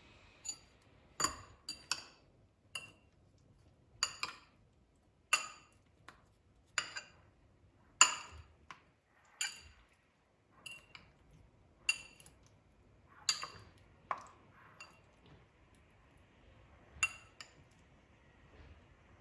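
Dishes and cutlery clinking: a series of irregular sharp clinks with a brief ring, roughly one every second, with a longer gap in the last few seconds.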